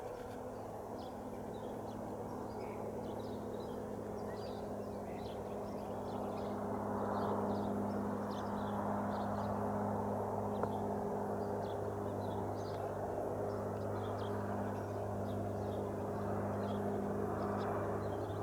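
Cessna 182 Skylane's single piston engine and propeller droning steadily at a distance, growing a little louder about seven seconds in. Faint bird chirps sound over it.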